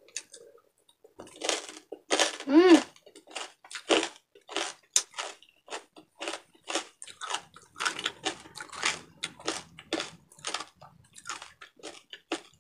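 Close-miked chewing of crispy deep-fried pork belly (bagnet), crunching about twice a second, with a short hum from the eater about two and a half seconds in.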